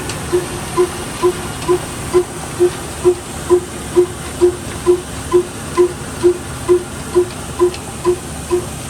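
Old black diesel engine driving a flour mill, running with an even exhaust beat of about two pulses a second over a steady hiss.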